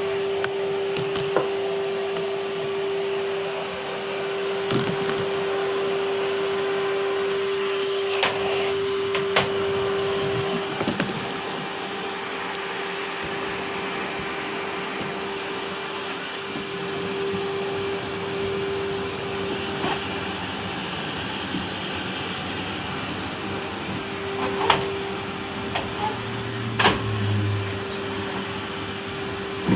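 Vacuum cleaner running with a steady motor hum, with a few sharp knocks scattered through, loudest near the end.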